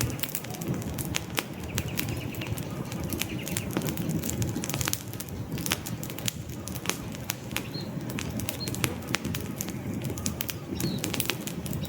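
Wood campfire burning, with frequent irregular sharp crackles and pops over a steady low rush of flame. A few faint short bird chirps sound in the background late on.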